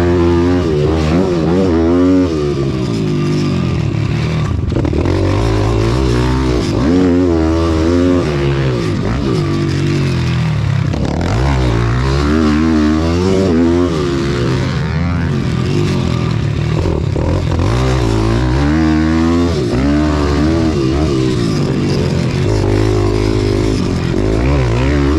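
Small four-stroke pit bike engines revving hard and easing off over and over, the pitch climbing and dropping every second or two as the bikes race around the track.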